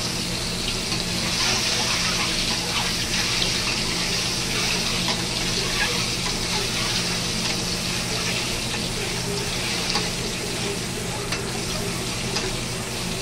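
Peeled boiled eggs sizzling in hot oil with turmeric in an aluminium kadai, the sizzle swelling as the eggs go in and are turned with a ladle, with light crackles of spattering oil. A steady low hum runs underneath.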